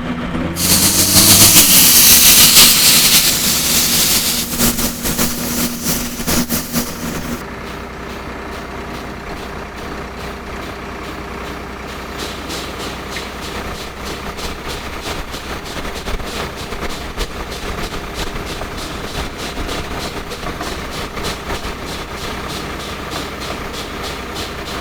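Drill rig's engine running, with a loud hissing rush for about the first seven seconds. After the hiss stops, the engine settles to a steady run with a fast, even pulse.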